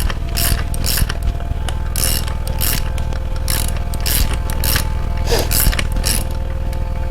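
A socket ratchet clicking in repeated short strokes as the rocker arm nuts of a 350 Chevy V8 are tightened to set up the pushrods.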